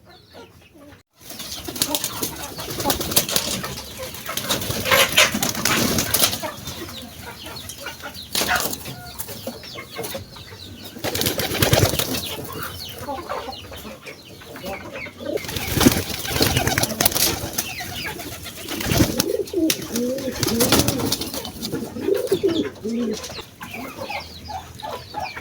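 Birds flapping their wings and calling, with repeated rustling flaps and a run of low, wavering calls in the last few seconds.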